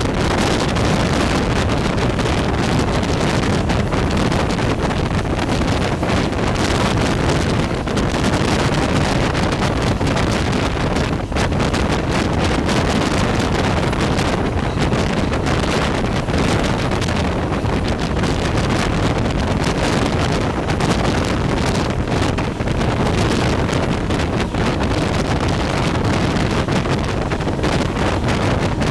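Carajás passenger train running along the track: a steady, loud rushing rumble, with wind buffeting the microphone.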